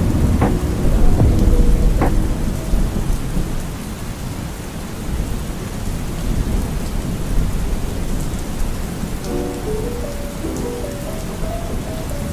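Steady rain with a low thunder rumble, heaviest in the first few seconds. Soft music notes die away early, and new music starts about nine seconds in.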